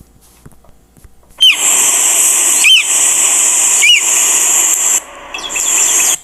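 Stock bird-call sound effect starting suddenly about a second and a half in: three short calls about a second apart over a loud, steady, high hiss, a brief dip, then more calls before it cuts off abruptly near the end.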